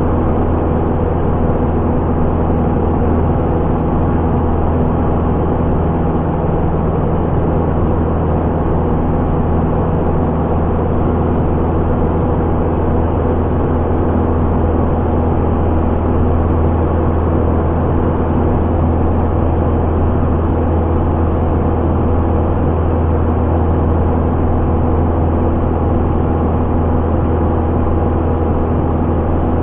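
Piper Warrior's four-cylinder Lycoming engine and propeller droning steadily at a constant pitch, with no change in power.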